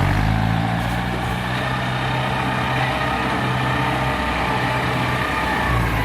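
Kubota tractor engine running steadily.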